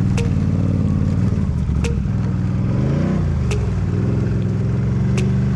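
Can-Am Renegade 1000 XMR ATV's V-twin engine running on the throttle, revving up and back down once about halfway through. Sharp clicks come about every second and a half.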